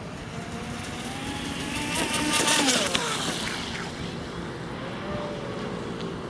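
Radio-controlled race boat's outrunner brushless electric motor whining at speed. The whine climbs in pitch, is loudest with a rushing hiss about two and a half seconds in, then drops in pitch, and a fainter whine comes back near the end.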